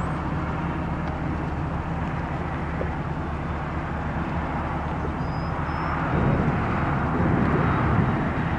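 Steady vehicle noise with a constant low engine hum, swelling louder about six seconds in.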